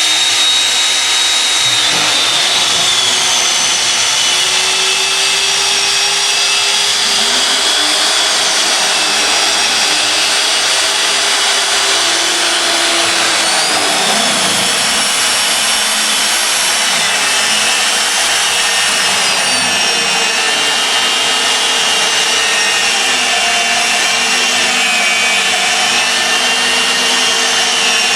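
Portable magnetic-base drilling machine running steadily, a loud motor whine over a rushing noise, its several pitches drifting slowly up and down.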